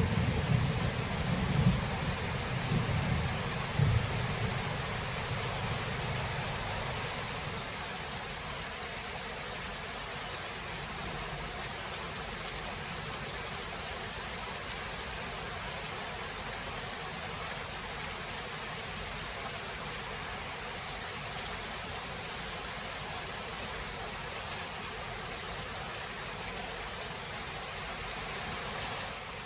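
Steady rain, with a rumble of thunder dying away over the first several seconds.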